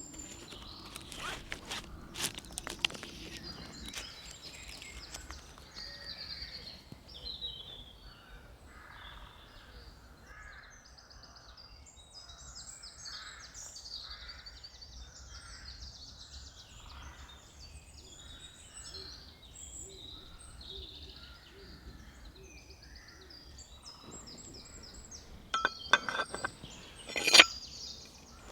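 Woodland birds singing, many short chirps and whistles overlapping. Near the end come a few loud, sharp knocks.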